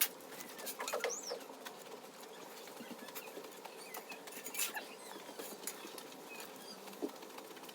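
Scattered light clicks and scrapes at an irregular pace over a faint steady hum, with one brief high chirp about a second in.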